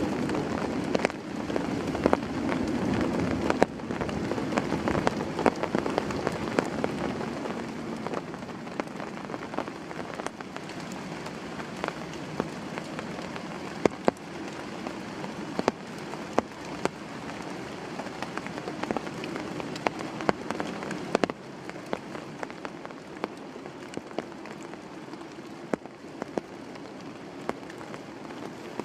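Heavy rain falling steadily, with many individual drops landing as sharp taps on a surface; a little louder for the first few seconds.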